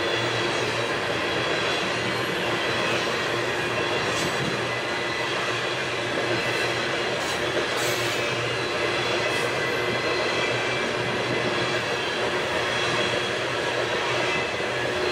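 Long freight train rolling along the track, its cars' wheels on the rails making a steady, unbroken noise.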